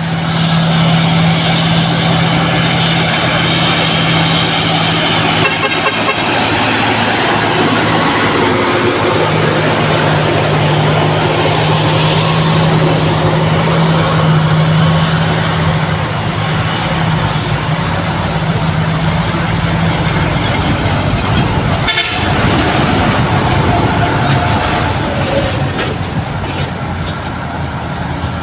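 Heavy vehicle running amid road noise, with a steady low tone for most of the first twenty seconds and a single sharp knock about 22 seconds in.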